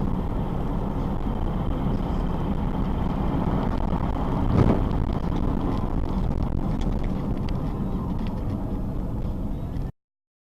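Steady road and engine noise of a car driving, picked up inside the car, with one brief thump about halfway through; it cuts off suddenly near the end.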